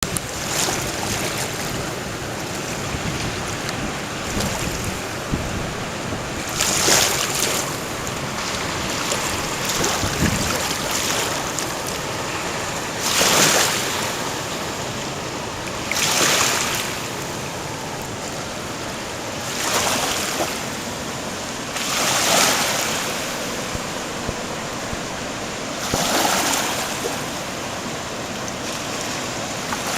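Typhoon wind and water at the Kumano River: a steady rushing noise that swells louder every few seconds, as gusts or waves surge.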